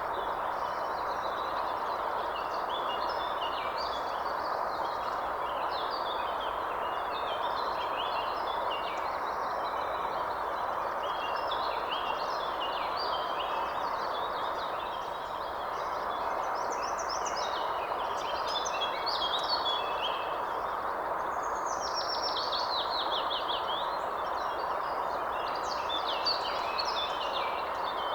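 Several birds chirping and trilling without pause over a steady rushing background noise, with a rapid run of falling notes about two-thirds of the way through.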